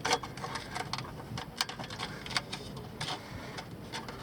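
Irregular light clicks and crinkles, several a second, of a thin sheet being rolled up tight by hand so it will fit inside the exhaust pipe.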